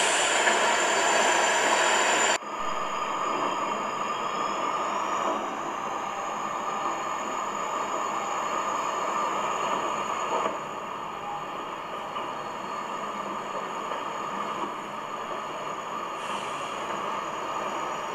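Ranchi–Howrah express passenger train running, heard from aboard the coach as a steady rush and rumble of wheels on track. It is louder for the first couple of seconds, then drops suddenly to a quieter steady running noise.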